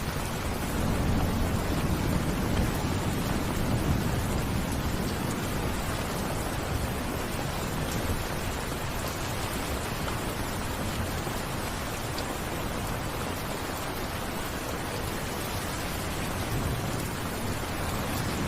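Steady rain falling, an even hiss. A low rumble swells under it in the first few seconds and again briefly near the end.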